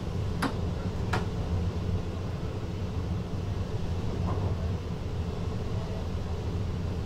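VIRM double-deck electric train running, heard from the driver's cab as a steady low rumble, with two sharp clicks about a second apart near the start and a fainter one in the middle.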